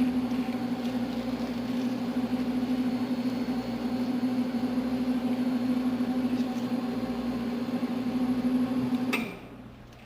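A machine's steady, loud hum holding one pitch, which cuts off suddenly about nine seconds in.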